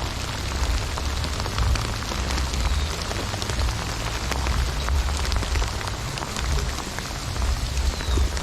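Heavy rain coming down hard: a dense, steady hiss dotted with many small drop ticks, over a low, uneven rumble.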